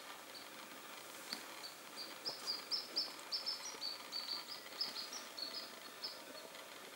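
A small songbird chirping a rapid series of short, high notes for several seconds, loudest in the middle. Faint footsteps scuff on dry forest ground underneath.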